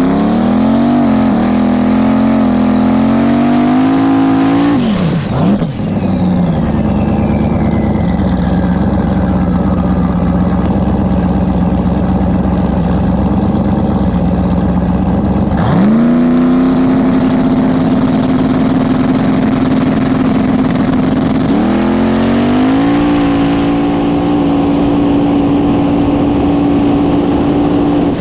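Race vehicle engine running hard at the drag strip. Its pitch climbs for about five seconds, then drops sharply with a high whistle falling away. It then holds a steady pitch, jumps higher around sixteen seconds and climbs once more near the end.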